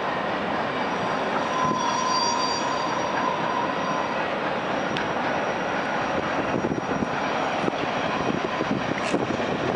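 A train rolling past on steel rails, a steady rumble and grind with a brief wheel squeal about a second and a half in, and clicks of wheels over rail joints growing more frequent in the second half.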